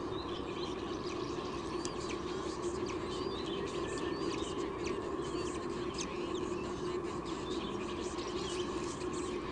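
Many short, high bird chirps and little rising calls, scattered throughout, over a steady low background hum.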